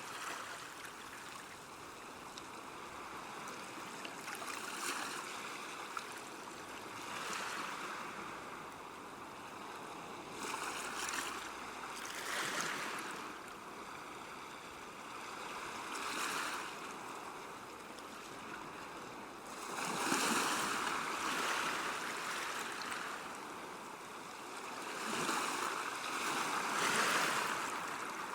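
River water washing along a bank: a steady rush that swells and eases every few seconds.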